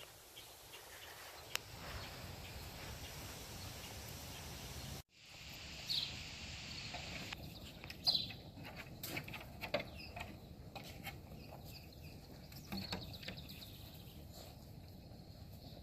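Faint outdoor background noise with scattered light clicks and a few short, high, falling squeaks, from an animal. The sound cuts out completely for a moment about five seconds in.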